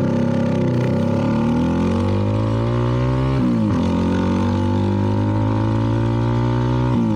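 CFMoto 300NK's single-cylinder engine, breathing through a KO aftermarket exhaust, pulling under acceleration. The revs climb steadily, drop at an upshift about three and a half seconds in, climb again, and drop at a second shift near the end.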